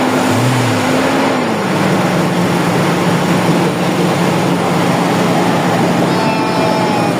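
Toyota Revo's 1RZ engine running steadily; its pitch eases down a little about a second and a half in.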